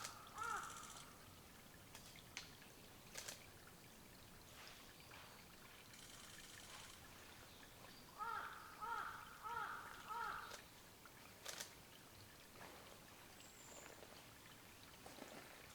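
A crow cawing, a quick series of four caws at the start and another four about eight seconds later, over a faint trickle of water, with a couple of sharp clicks in between.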